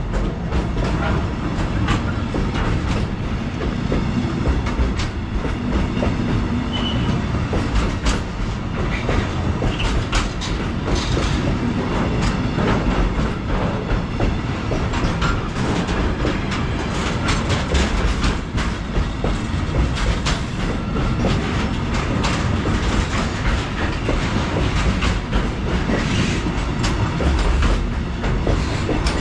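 Freight train passing, its wagons' wheels rumbling and clicking steadily over the rail joints.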